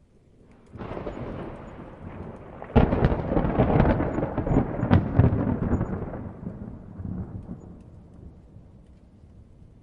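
Thunder: a rumble begins about a second in, breaks into a sharp, louder crack and rolling peal around three seconds, and then slowly fades out.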